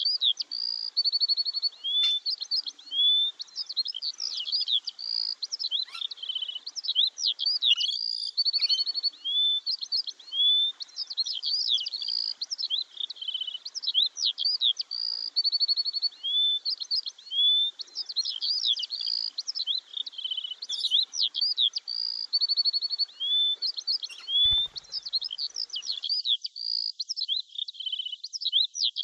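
A chorus of small birds chirping and tweeting without pause: quick, high notes sliding up and down and short trills, overlapping one another. A brief low thump about 24 seconds in.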